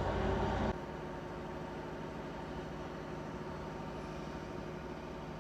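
Heavy vehicle engine running steadily, a little louder for the first second, then an even drone.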